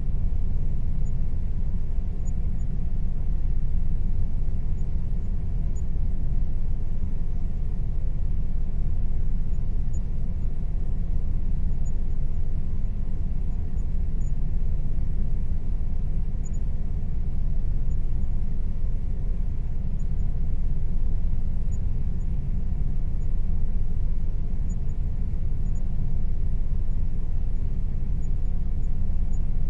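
Air conditioner running steadily: a constant low rumble with a faint, even hum above it.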